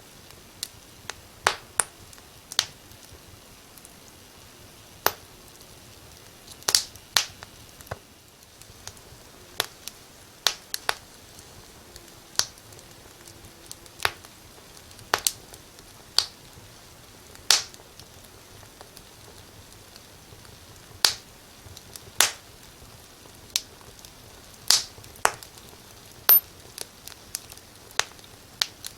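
Wood fire in a fireplace crackling: irregular sharp pops, roughly one or two a second and uneven in loudness, over a faint steady hiss.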